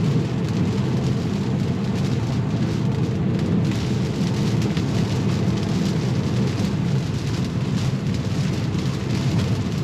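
Steady rumble and hiss of a Tesla's tyres on a wet road, with rain, heard from inside the moving car's cabin.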